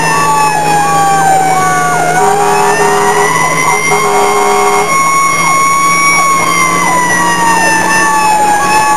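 Fire engine siren wailing in a slow fall and rise, with a second, faster repeating siren pattern over it. Two steady horn blasts sound about two seconds in, and the engine hums steadily underneath.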